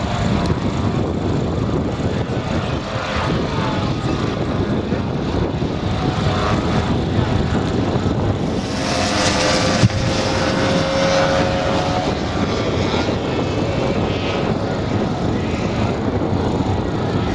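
Engines of large-scale RC model warbird aircraft running in flight, swelling louder as one passes about halfway through. A single sharp crack comes near the loudest moment.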